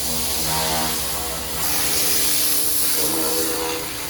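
Water spraying with a steady hiss from a hose nozzle while a vehicle is rinsed during detailing.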